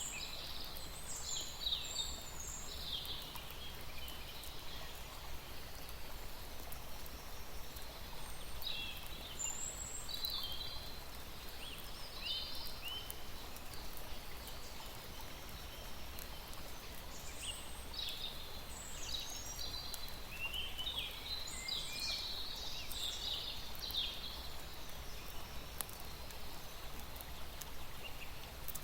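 Small birds chirping and twittering in clusters of quick high notes: near the start, again around the middle, and most densely a little after, over a steady low background hum.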